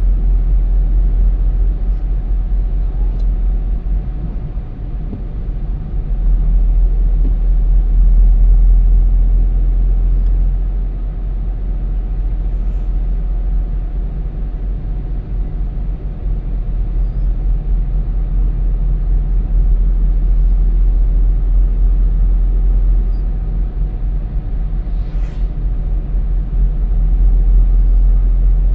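Car driving along: a steady, heavy low rumble of engine and road noise that swells and eases a little, with a few faint ticks.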